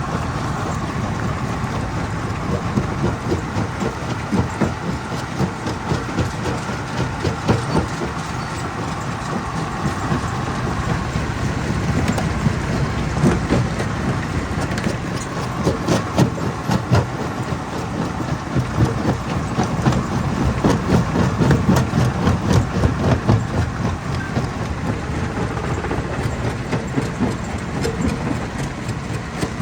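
Hammer crusher running under load, a continuous heavy rumble with a dense, irregular clatter and knocking of rock being broken.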